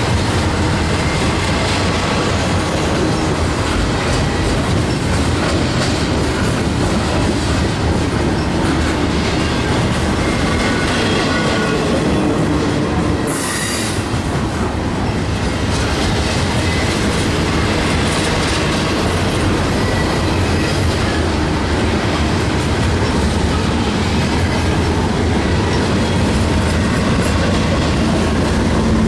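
Freight train cars rolling past close by: a steady, loud rumble of steel wheels on rail, with thin wheel squeals now and then.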